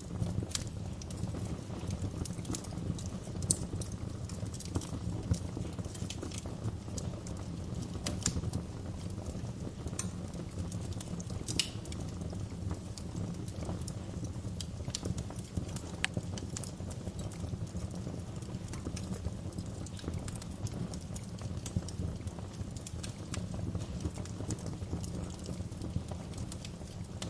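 Wood fire burning in a fireplace: a steady low rumble of flames with irregular crackles and sharp pops throughout.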